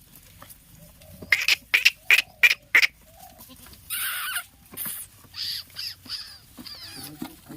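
Farmyard fowl calling: a quick run of about six sharp calls, a short hissing burst about four seconds in, then a few more calls near the end.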